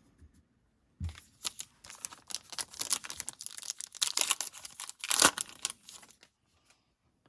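A trading-card pack wrapper crinkling and tearing as it is opened, starting about a second in and stopping shortly before the end.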